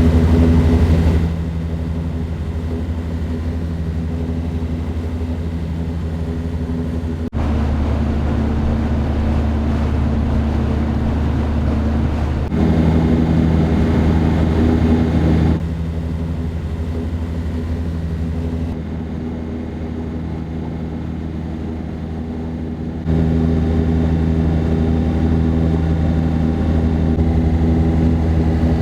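A small boat's motor running steadily under way, a low, even hum. Its loudness jumps up and down abruptly several times.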